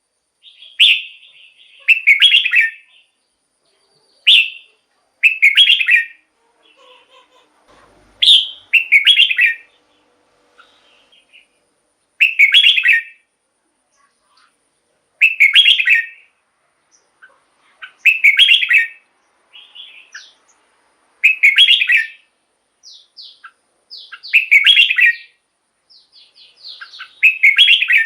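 Red-whiskered bulbul singing: a short, loud whistled phrase repeated about a dozen times, roughly every two to three seconds. Softer quick notes fill the gaps between phrases near the end.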